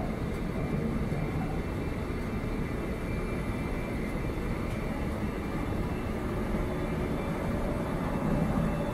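Freight train of container and tank wagons rolling past close by, a steady rumble of wheels on the rails.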